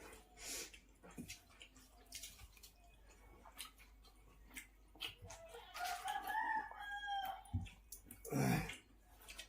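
A rooster crows once, one long call of about two and a half seconds starting around five and a half seconds in, over scattered small clicks, with a short noisy burst just after the crow.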